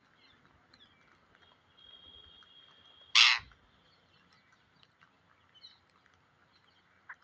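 A Psittacula parakeet gives one short, loud, harsh screech about three seconds in, with faint chirps around it. Just before the screech there is a faint steady high whistle lasting about a second and a half.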